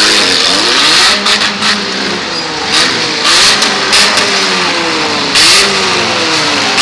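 Several demolition derby cars' engines revving, their pitches rising and falling as they rev up and ease off, with a few short sudden noises over them, the loudest about five and a half seconds in.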